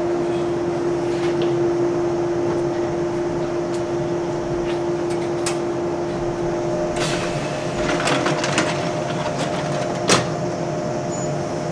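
Steady electrical hum from a standing JR 183 series electric train, with scattered metallic clicks and clatter from the gangway doors at the coupled cab ends being worked. The clatter bunches up about seven to nine seconds in, and the loudest sound is a single sharp knock just after ten seconds.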